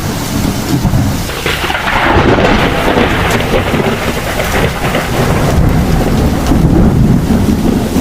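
Heavy rain falling steadily with thunder rumbling low underneath. A louder swell of thunder comes in about a second and a half in.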